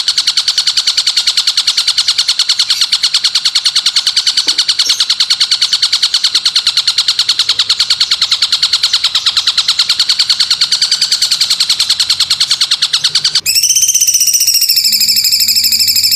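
Recorded call from a songbird-training track: a rapid, buzzy trill of about nine pulses a second, held for some thirteen seconds, then switching abruptly to a steady high-pitched whistling call with overtones that falls slightly in pitch.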